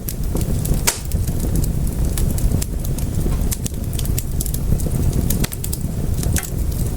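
Wood fire crackling in a fireplace: irregular sharp pops and snaps over a steady low rumble, with one louder pop about a second in.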